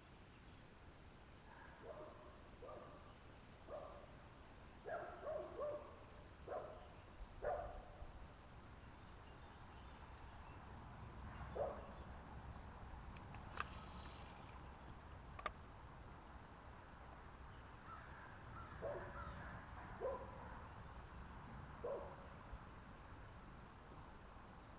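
A steady, high-pitched insect drone, with two clusters of short, mid-pitched knocks or calls and two sharp clicks near the middle.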